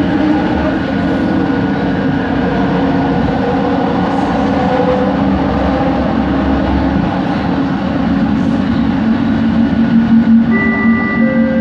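Kelana Jaya Line metro car running on the line, a steady loud ride rumble with several held motor tones, the linear induction motors' noise. Near the end a new set of higher motor tones comes in and steps upward in pitch.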